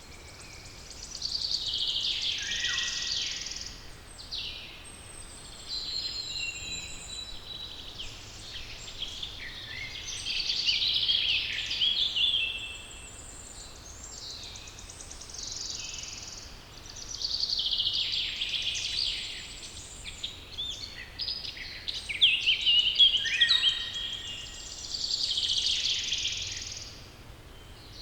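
Songbirds singing: high, quick song phrases of two to three seconds that come every few seconds, with fainter chirps in the gaps between.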